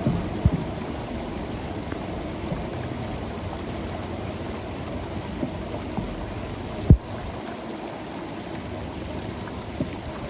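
Steady rush of floodwater and rain on a flooded street, with a few short, low thumps; the sharpest comes about seven seconds in.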